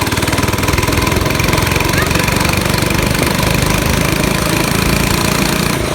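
Mini bike's small engine running steadily, with a fast, even pulsing beat.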